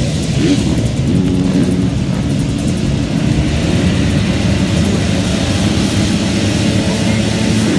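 Motocross motorcycle engines revving at race pace, several engine notes rising and falling over one another.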